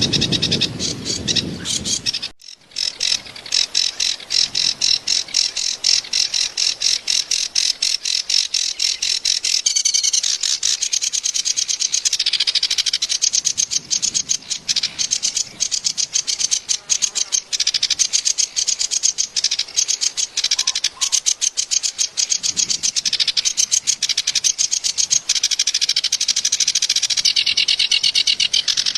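Kerak basi (reed warbler) singing a long, harsh, rapid chattering song of fast-repeated high notes, a rough recording meant for tutoring cage birds. In the first two seconds a lower grating sound is heard; after a brief break the high chatter runs on without pause.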